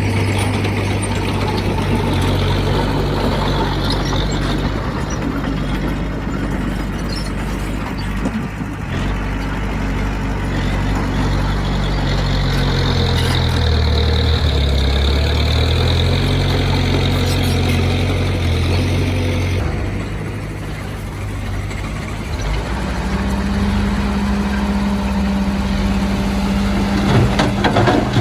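Heavy diesel engine of earthmoving machinery running under varying load, its pitch shifting up and down several times. A few sharp knocks near the end.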